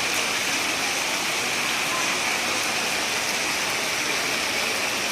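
Heavy rain and rushing floodwater, a steady, even hiss of water that does not change.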